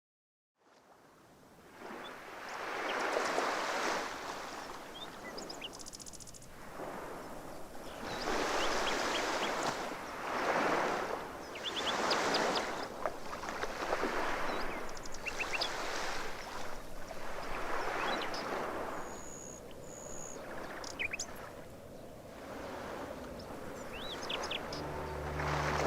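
Sea waves washing in, swelling and falling back every couple of seconds, with small birds chirping over them.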